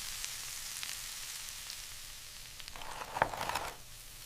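Food sizzling in a hot pan, a steady fine hiss, with a brief louder clatter and a sharp click about three seconds in.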